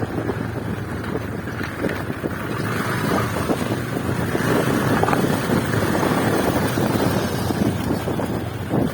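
Wind buffeting the microphone on a moving motorcycle, a dense steady rush with the ride's low rumble beneath it.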